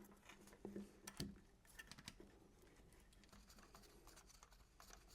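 Near silence with a few faint, light clicks and taps: metal timing-chain parts being handled as the chain and sprocket are lined up by hand.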